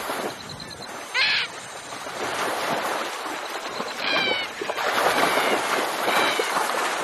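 Heavy water splashing and churning as saltwater crocodiles thrash while fighting over a carcass, with a bird's short, high, downward-sliding call heard three times over it.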